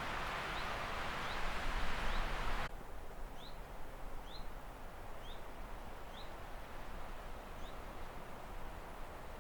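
A bird calling in short rising chirps, repeated about once a second. A rushing noise under it cuts off suddenly about a third of the way in.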